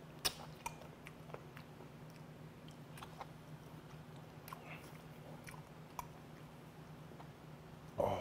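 A person chewing a mouthful of braised skate close to a clip-on microphone: wet chewing with small clicks and smacks of the mouth, over a low steady hum. A short, louder mouth noise comes near the end.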